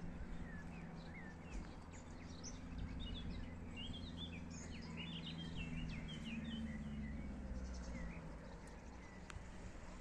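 Small birds chirping, many short quick notes, busiest in the middle of the stretch. Under them runs a steady low hum that fades out near the end, over faint outdoor background noise.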